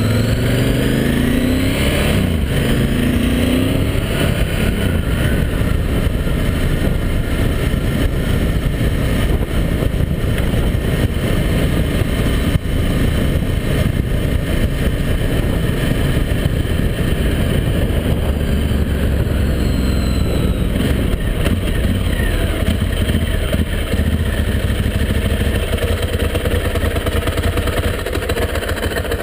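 Ducati Multistrada 1000DS's air-cooled L-twin engine running under way, rising in pitch as it accelerates in the first few seconds, then pulling steadily through the ride and easing off slightly near the end.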